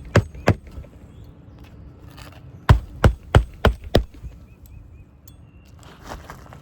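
Hammer driving roofing nails through asphalt shingles: two sharp strikes near the start, then a run of five quick strikes, about three a second, a few seconds in.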